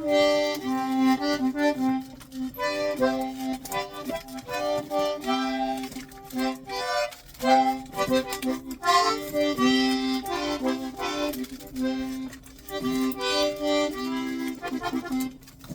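Accordion playing a melody in short phrases of held chords, with brief pauses between them.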